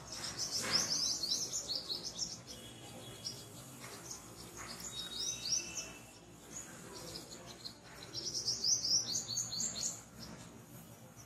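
Small birds chirping in quick runs of short, high notes, coming in three spells: near the start, about five seconds in, and again from about eight to ten seconds in.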